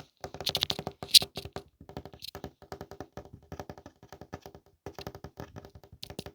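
Fingernail tapping rapidly on a hard object, in quick runs of clicks with short pauses between them; the sharpest clicks come about a second in.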